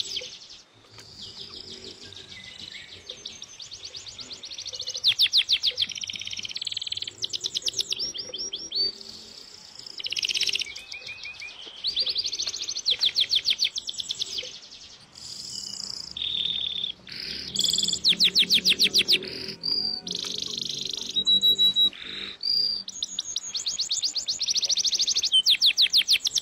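Birds chirping, with many quick runs of rapid high trilling notes following one another.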